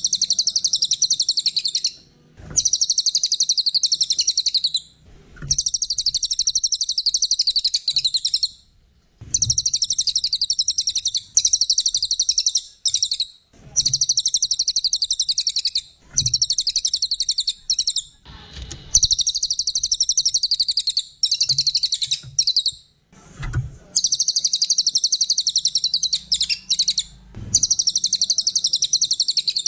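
Cililin songbird singing a loud, high-pitched, very rapid chattering trill in long phrases of a few seconds each, with short pauses between them.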